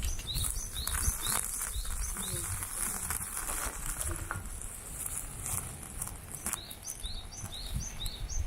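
A bird calling in two runs of short, quickly repeated high chirps, about three a second, with a pause of several seconds between the runs. Scattered sharp crackles sound under it.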